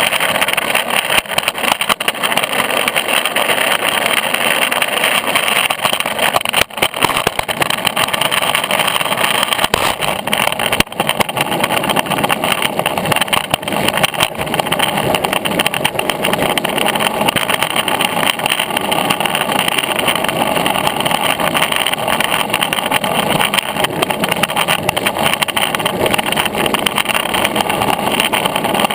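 Longboard wheels rolling over rough, uneven pavement: a steady, loud rumbling clatter of road noise, briefly dipping a couple of times.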